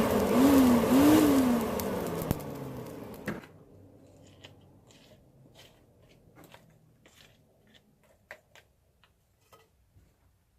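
A small motor whirs loudly with a whine that swings up and down in pitch, then cuts off suddenly about three and a half seconds in. Faint scattered ticks and crackles follow.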